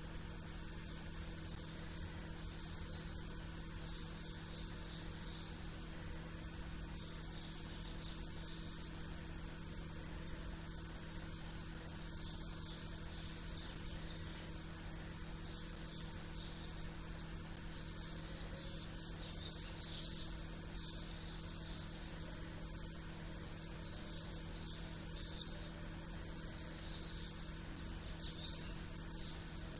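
Small birds chirping in quick clusters of short high notes, sparse at first and busier in the second half, over a steady hum and hiss.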